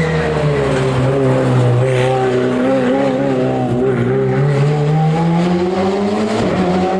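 Hill-climb race car engine. Its pitch drops as the car slows, holds low for a few seconds, then climbs again as it accelerates away.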